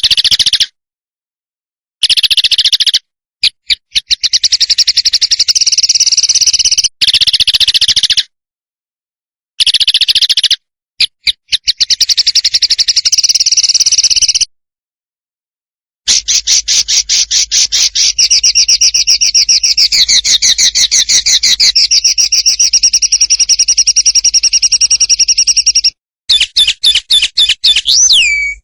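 Songbird song used as masteran for training cage birds: long runs of rapid, evenly repeated high notes, in phrases that start and stop abruptly with dead silence between them, and one falling whistle near the end.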